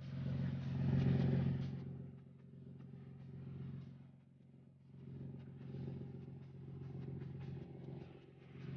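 An engine running steadily with a low hum that swells and fades in level, loudest about a second in and quieter around the middle.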